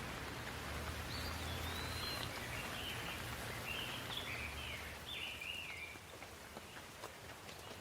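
Steady rain, with a bird singing a string of short chirping phrases over it in the first half and a few sharp drips near the end.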